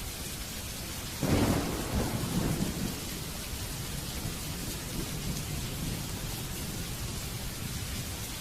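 Steady rain with a sudden clap of thunder about a second in that rumbles away over the next second or so.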